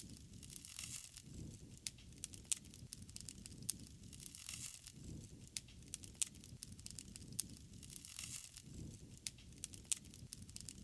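Wood fire crackling, with sharp irregular pops over a low rumble.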